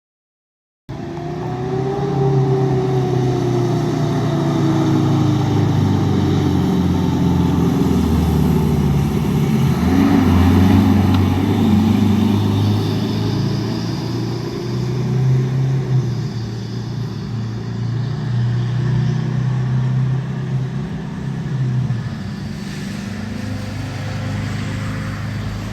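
Fire engine responding: a siren's pitch falls over the first few seconds, over the truck's engine running steadily. The sound starts abruptly about a second in.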